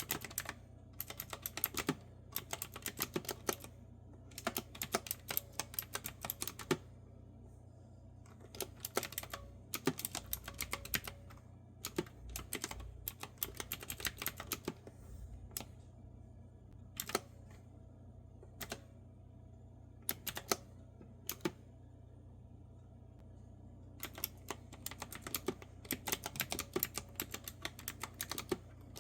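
Typing on a clicky retro-style keyboard with round keys, crisp keystrokes coming in bursts of quick clicks with short pauses in between.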